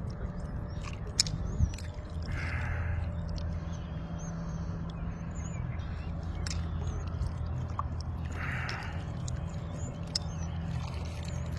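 Open-water ambience: a steady low rumble of wind on the microphone, with faint, repeated high chirps of a small bird. Two sharp knocks come about a second and a half in, and short hissing swishes come twice.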